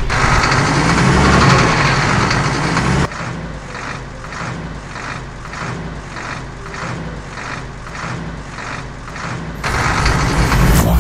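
Cartoon truck engine sound effects. The engine is loud for the first three seconds with a rise and fall in pitch, then drops to a rhythmic pulsing about twice a second before getting loud again near the end.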